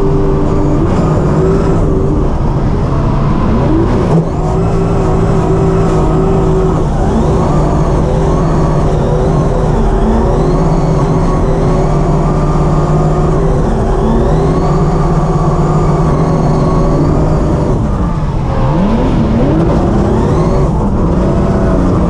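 BMW E92 M3 drift car's engine heard from inside the cockpit, held at high revs on track. The pitch falls sharply and climbs back about eighteen seconds in.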